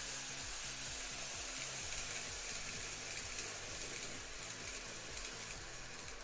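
N-scale model trains running on track: a steady hiss with fine crackle from the wheels and motors.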